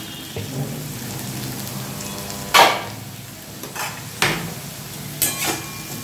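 Cubed potatoes frying in oil in an aluminium kadai, a steady sizzle. A few sharp metal clanks break in, the loudest about two and a half seconds in.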